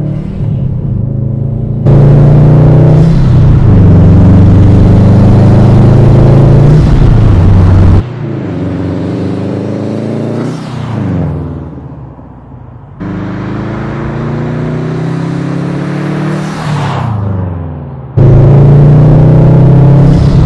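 2018 Subaru WRX STI's turbocharged 2.5-litre flat-four, breathing through a Cobb intake and Tomei cat-back exhaust, accelerating hard. It is heard in several short clips that cut abruptly from one to the next: revs rising under throttle, and the car passing by with its pitch falling as it goes past.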